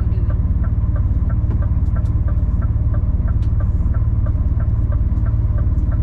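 26-tonne rigid lorry's diesel engine running, heard from inside the cab as a steady low drone, with a light, even ticking about six times a second over it.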